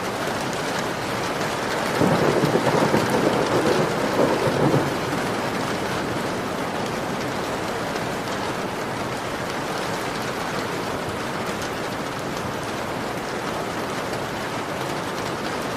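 Heavy rain beating steadily on a window pane. About two seconds in, a louder low rumble swells for about three seconds, then fades back into the rain.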